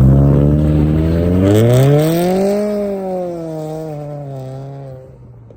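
A car with a loud exhaust accelerates away. Its engine note climbs for about two and a half seconds, then eases off and fades as the car drives off.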